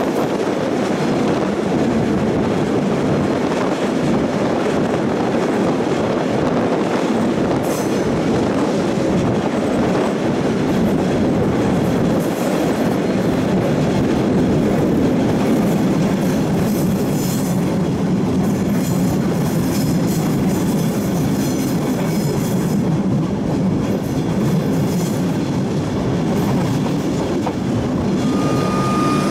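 Victorian Railways Tait electric suburban train running, heard from on board at an open window: a steady rumble of wheels on the track, with some clickety-clack and higher wheel squeal or hiss through the middle as it takes the curves.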